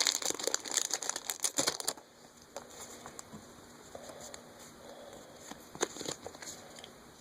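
Foil booster-pack wrapper crinkling and tearing open for about two seconds, then faint rustling with a few soft clicks as the cards are handled.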